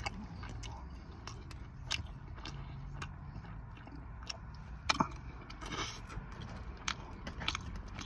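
A man chewing a mouthful of pizza close to the microphone: irregular crunches and mouth clicks, the loudest about five seconds in.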